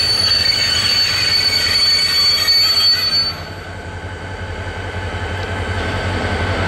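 Freight train hauled by two EMD-based NGT26CW-3 diesel locomotives rolling through a station. A high, steady wheel squeal stops about three seconds in, and the low diesel rumble carries on, growing slightly louder near the end.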